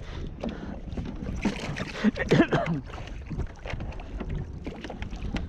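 Wind buffeting the microphone out on a kayak, with scattered small knocks and a short burst of a voice about two seconds in.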